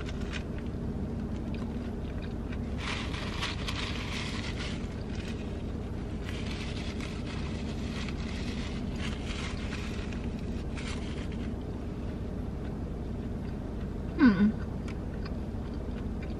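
Close-up chewing of a crispy fried chicken sandwich, in several spells of crunchy, wet mouth noise, over the steady low hum of the car running. About two seconds before the end, a brief falling vocal "mm" is the loudest sound.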